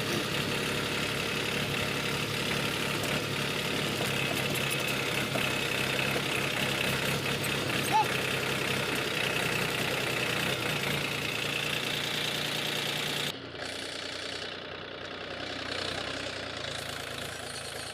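Powertrac Euro 50 tractor's diesel engine running steadily, with a brief sharp peak about eight seconds in. About thirteen seconds in the sound suddenly drops and turns duller.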